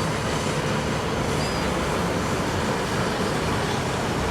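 Steady engine rumble mixed with a noisy wash of wind and water.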